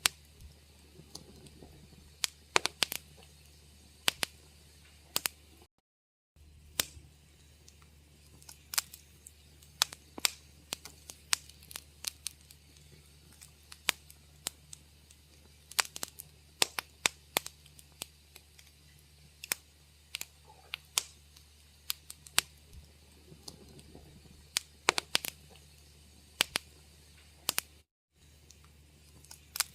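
Wood fire crackling in a fireplace: irregular sharp pops and snaps over a low steady hum. The sound cuts out briefly twice, about six seconds in and near the end.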